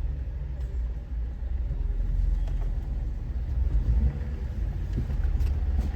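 Off-road vehicle driving slowly on a rough dirt mountain trail, heard from inside the cab: a steady low rumble of engine and tyres with a few faint knocks.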